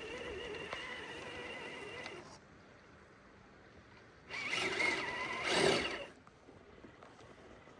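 Element Sendero RC crawler's electric motor and geared drivetrain whining steadily, cutting out a little over two seconds in. About four seconds in, a louder burst of wavering whine lasts about two seconds, then stops.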